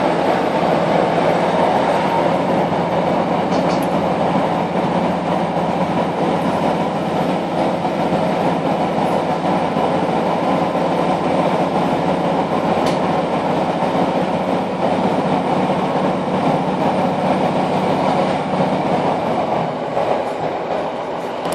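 Class 156 Super Sprinter diesel multiple unit running at speed, heard from inside the carriage. A steady drone of underfloor diesel engine, wheels and rail with a low hum, easing off slightly near the end.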